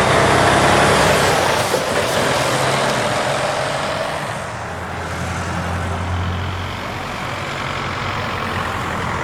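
A heavy truck's diesel engine with an open exhaust, loud as it passes in the first seconds, then fading to a steadier low engine rumble.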